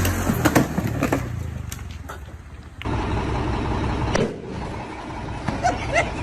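Road traffic and vehicle noise with several sharp knocks in the first two seconds. About three seconds in, the sound cuts abruptly to different road noise, with a dull thump near the middle and a few short squeaks near the end.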